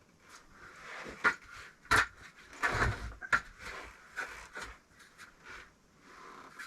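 Bricklaying: a trowel scraping through mortar and bricks knocking as they are set down and tapped into place, with a few sharp knocks among the scraping.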